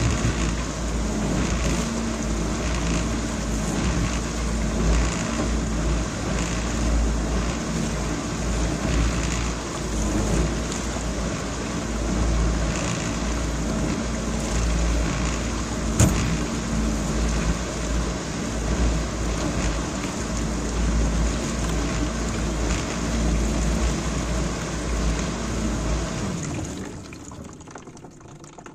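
GE dishwasher running, water spraying and sloshing inside over a steady low rumble, with a single click about halfway through; the sound fades out near the end.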